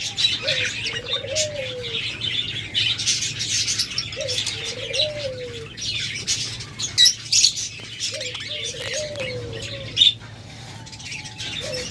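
Budgerigars chirping and chattering throughout, with a diamond dove cooing three times, each coo rising and then falling in a slow downward glide. Wings flap in short sharp flutters a couple of times.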